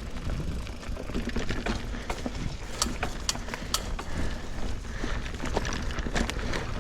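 Mountain bike rolling over a dirt trail: a steady low rumble from the tyres and bike, with many scattered clicks and rattles from the chain and frame.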